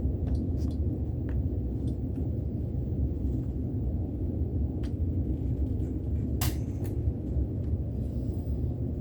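Steady low rumble with a few light clicks and knocks scattered through it, the loudest about six and a half seconds in.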